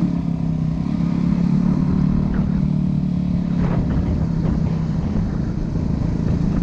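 Dirt bike engine running at a steady speed, a low even drone.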